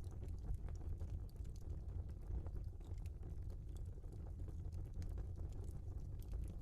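Log fire burning in a fireplace: a steady low rumble of the flames with scattered sharp crackles and pops of the burning wood.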